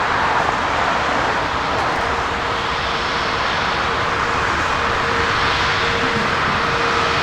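Jet airliner engines, a steady rushing noise with a faint whine that comes and goes.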